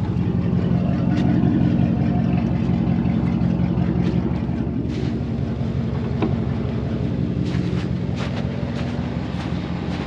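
Dodge mud truck's engine running steadily under load in four-wheel-drive low as the tires churn in soft mud and the truck bogs down and gets stuck, with a few short clatters partway through.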